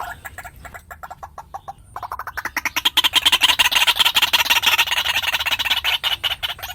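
White-breasted waterhen calling: a fast run of short, harsh clucking notes, quieter at first, then louder and higher-pitched from about two seconds in.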